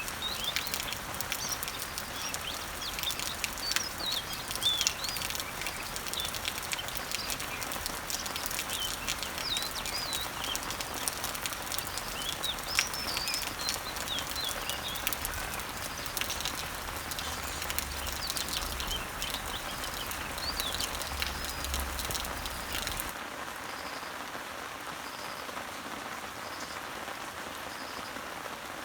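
Steady rain falling on garden leaves and trees, with small birds chirping over it. Near the end the birdsong cuts off suddenly and only the rain goes on.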